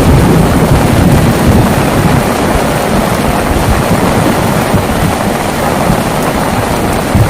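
Heavy rain falling steadily, with a low thunder rumble that dies away over the first couple of seconds and a brief low thump near the end.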